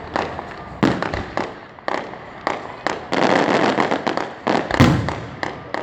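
Fireworks going off: a quick series of sharp bangs that thickens into a dense, continuous barrage about three seconds in, with a deep boom near the end.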